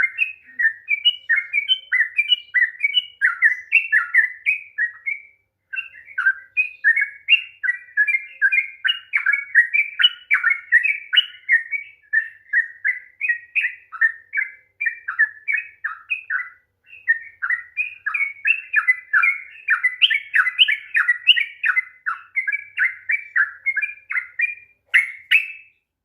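Yellow-vented bulbul (trucukan) singing a long, rapid run of short chattering whistled notes, several a second, breaking off briefly a few times.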